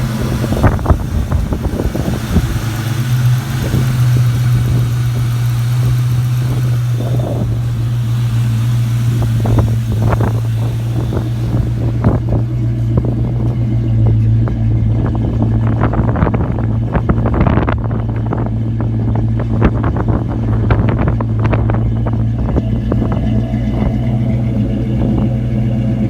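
Ford Mustang GT's V8 engine idling steadily, running smoothly on a fresh set of NGK spark plugs with all cylinders firing. Many short clicks and knocks sound over the idle through the second half.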